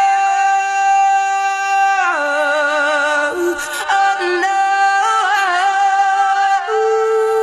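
A woman singing long, drawn-out notes with vibrato and no clear words, moving between several held pitches.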